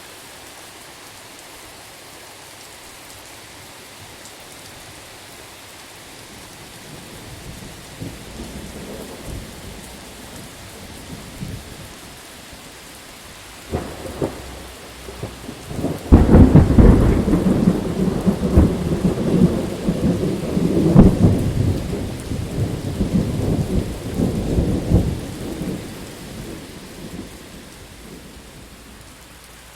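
Steady rain falling, with a thunderstorm's thunder building into a low rumble, a sharp crack about halfway through, then the loudest clap and a long roll of rumbling that dies away near the end.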